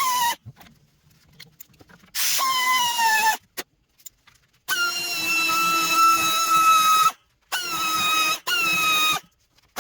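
Hand-held electric power tool, such as a drill, run in four bursts of a high whine. Each burst climbs in pitch as the motor spins up and sags a little as it runs, the longest lasting about two and a half seconds.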